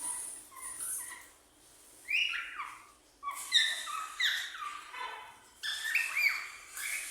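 Cockatiels calling: a few short chirps, then repeated whistled calls that slide down in pitch, in bursts about a second apart.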